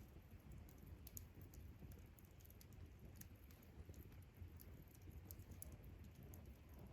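Faint campfire crackling: scattered small, sharp ticks at irregular intervals over a low steady rumble.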